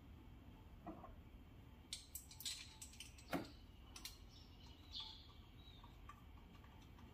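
Quiet background with a handful of short, light clicks and taps in the middle, and a bird chirping once about five seconds in.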